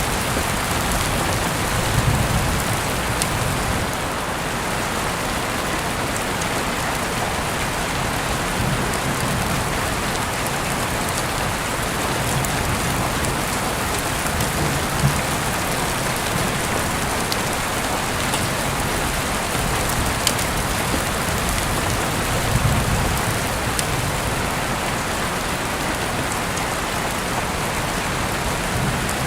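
Heavy rain falling steadily, a dense even hiss with occasional sharper drop hits.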